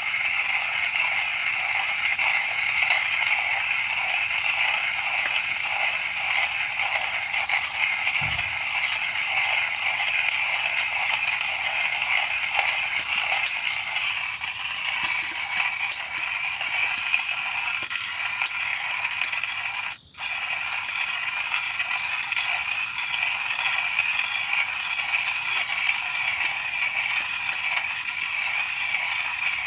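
Continuous high-pitched chirring with a regular pulsing beat above it, breaking off for an instant about two-thirds of the way through.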